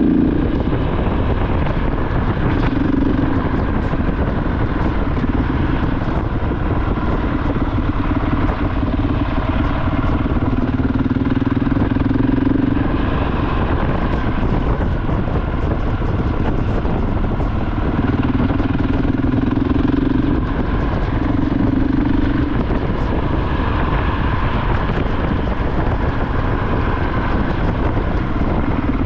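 KTM 690 Enduro R's single-cylinder engine running on the move, heard under heavy wind noise. The engine note swells in several stretches as the throttle opens and closes.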